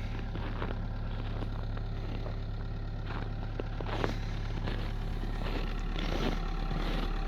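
2010 Skoda Octavia 1.6 TDI four-cylinder common-rail diesel idling steadily with light ticking, running cold in about −21 °C frost.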